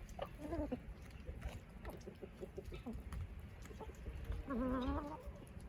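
Chickens clucking up close, with short calls at first and a longer wavering call about four and a half seconds in.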